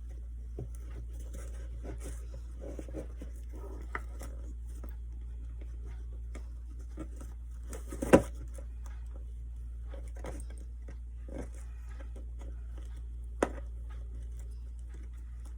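Hands working ribbon around small wooden craft pieces on a table: soft scattered rustling and light clicks. A sharp knock comes about eight seconds in and a lighter one near the end, over a steady low hum.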